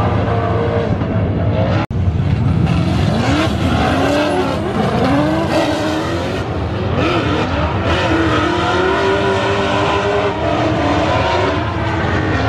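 Drift cars' engines revving hard, rising and falling in pitch, with tyre squeal from cars sliding through the corners. A brief dropout about two seconds in.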